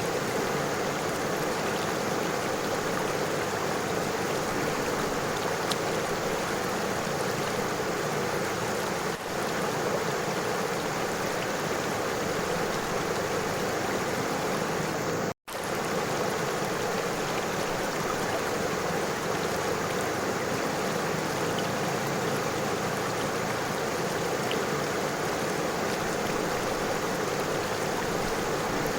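River water flowing over stones: a steady, even rushing. It cuts out completely for an instant about halfway through.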